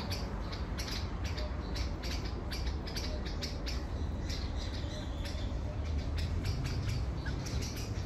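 Small birds chirping: short, high chirps repeating rapidly, several a second, over a low steady rumble.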